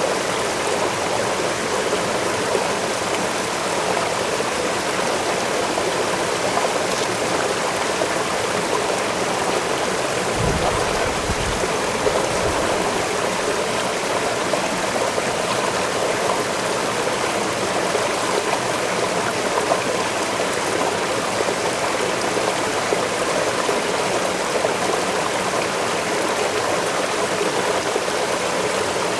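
Waterfall rushing steadily, a continuous dense splash of falling water. A brief faint low rumble about ten seconds in.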